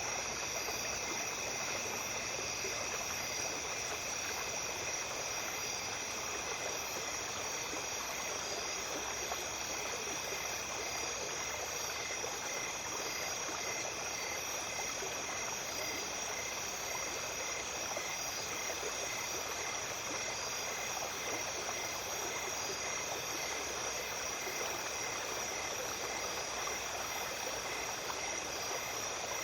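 Small creek flowing steadily at night, with a chorus of insects calling in several steady high-pitched tones over it, one of them pulsing in a slow even rhythm.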